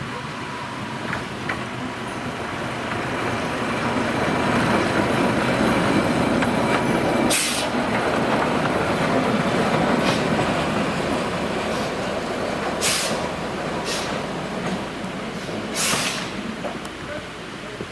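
Narrow-gauge forest railway train running along the track, heard from on board: a steady rumble of wheels on rail that swells and then eases off, with several sharp clicks in the second half.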